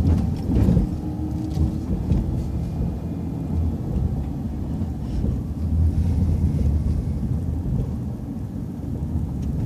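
City transit bus in motion, heard from inside: a steady low rumble of engine and road noise, with a few knocks and rattles in the first second.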